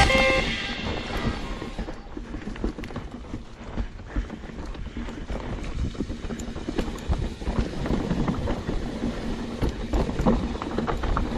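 Trek Slash full-suspension mountain bike ridden over rough trail: tyres rolling on dirt and roots, with frequent irregular knocks and rattles from the bike. Backing music fades out in the first second.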